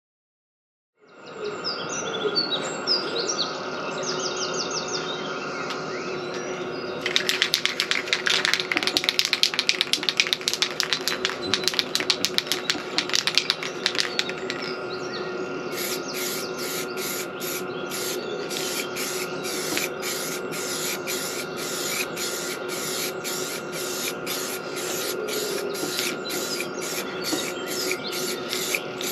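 Aerosol spray can of filler primer being used on a motorcycle fuel tank: a hiss with rapid clicking, then a steady rhythm of sharp pulses about two a second through the second half. Birds chirp in the first few seconds.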